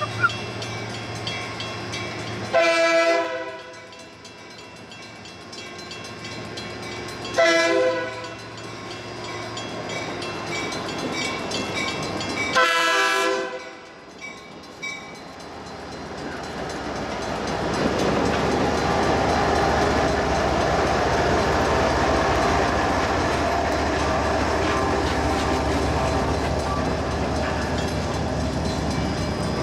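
A Metra commuter train's horn sounds three times, about five seconds apart, then the train passes with a loud, steady rush of wheels on rail that builds through the second half.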